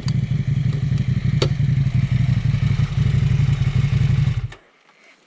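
Motorcycle engine running steadily close by, with two sharp clicks near the start and about a second and a half in; the engine sound stops abruptly about four and a half seconds in.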